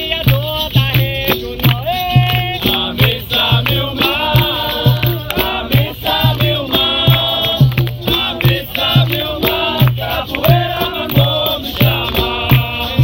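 Capoeira roda music: group singing over berimbaus with caxixi rattles and hand percussion, with a steady low beat about twice a second.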